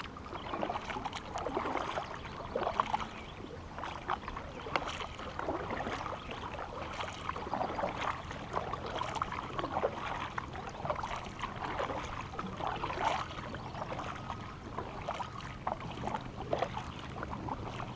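Kayak paddle dipping and splashing in the water in a steady rhythm of strokes about a second apart, with small knocks and drips in between.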